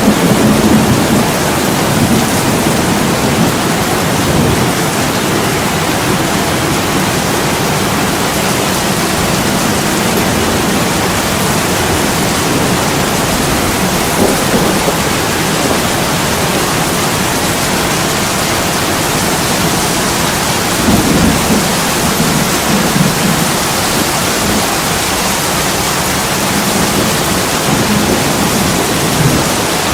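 Heavy rain pouring steadily on a window. Low rumbles of thunder swell at the start and again about two-thirds of the way in.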